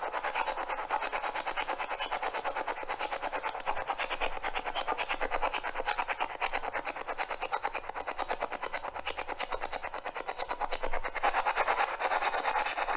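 Spirit box radio scanning rapidly through stations: a fast, even stutter of static and radio fragments, many pulses a second.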